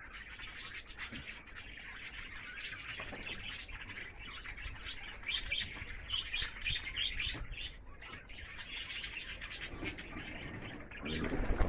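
Birds chirping: many short, high chirps, often in quick runs of several a second. A louder low rumble starts just before the end.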